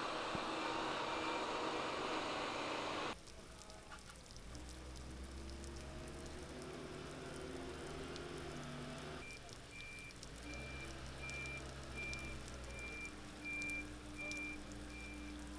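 A vehicle engine running low and steady, with a high electronic beep repeating a little more than once a second starting about halfway through. The first three seconds are a louder steady hiss of street noise that cuts off abruptly.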